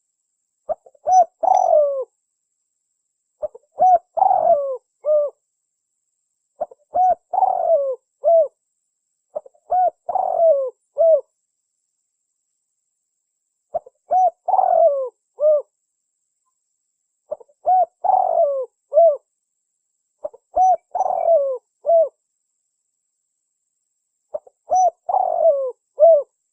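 Spotted dove (tekukur) singing its cooing song, a short phrase of several rolling coos repeated about eight times, roughly every three seconds, with one longer pause partway through.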